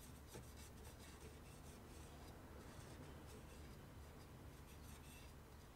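Faint scratching and rubbing of a silver paint pen's tip on a plastic toy motorcycle, over a low steady hum.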